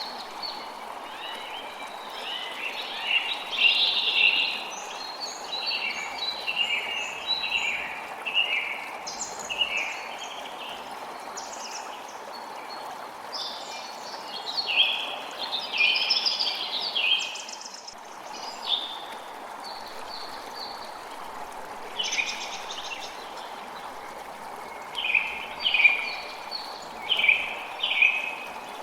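Creek water running steadily, with small birds chirping and singing in quick bursts over it, the loudest chirps near the end.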